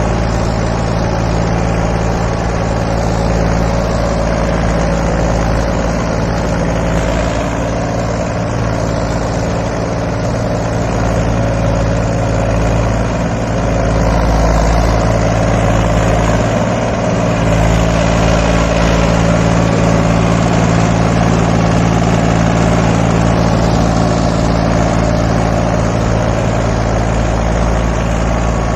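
Mahindra 275 XP Plus tractor's three-cylinder diesel engine running at a steady speed, growing somewhat louder about halfway through.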